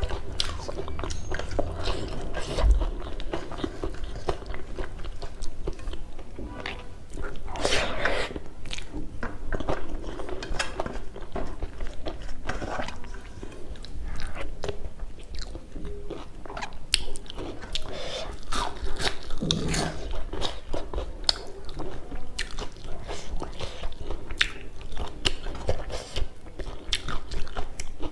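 Close-miked eating sounds: chewing and biting, with many crisp crunches and crackles from fried chives pakora (nakuppi bora) and some soft wet mouth sounds.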